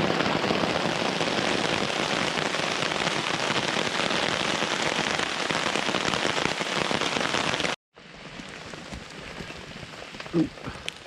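Heavy rain falling, a dense steady hiss that cuts off suddenly about eight seconds in. After the cut a much fainter hiss continues, with one brief knock near the end.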